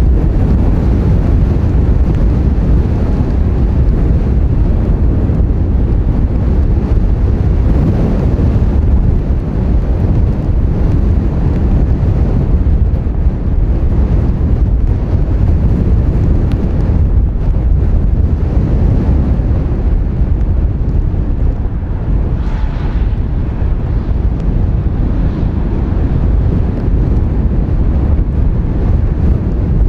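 Strong wind buffeting the microphone: a loud, steady low rumble that buries other sound.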